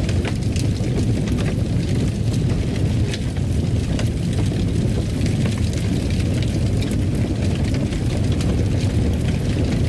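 Fire burning in a fireplace: a steady low roar with frequent small crackles and pops.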